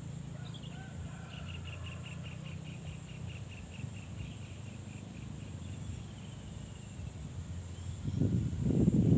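A bird calls a fast run of repeated high notes, about six a second, for a few seconds over a steady low hum. Near the end a loud, uneven low rumble comes in.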